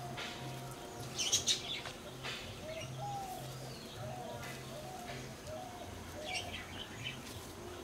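Small birds chirping in short bursts, loudest about a second in and again near the end.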